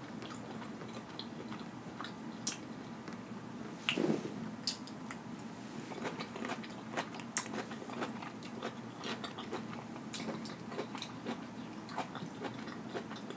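Close-miked chewing of a sauce-dipped broccoli floret, with many small wet clicks and smacks of the mouth and a slightly louder bite about four seconds in.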